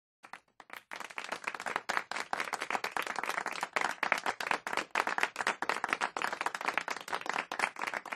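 Applause: many hands clapping together, starting sparse and quickly thickening into a steady, dense clatter.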